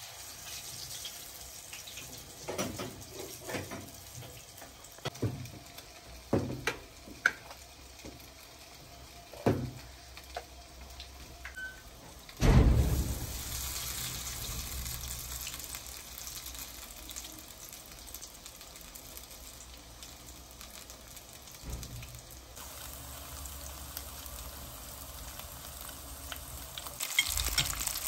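Grated-potato patties frying in hot oil in a pan, sizzling, with the clicks and knocks of a spoon and utensils in the first half. A loud knock comes about halfway through, after which the sizzle runs steadily and grows louder near the end.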